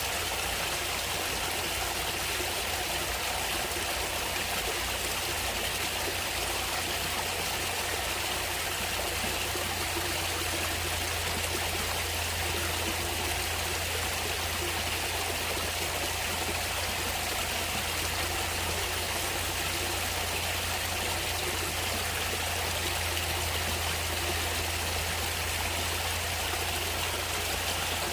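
A natural stream of running water, flowing and trickling steadily without change.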